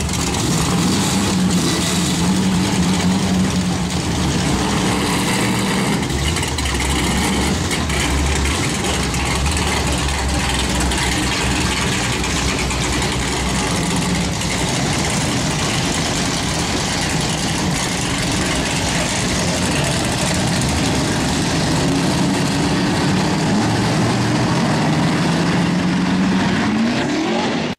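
Car engine running loud and steady at raised revs, its pitch climbing near the end as it is revved up.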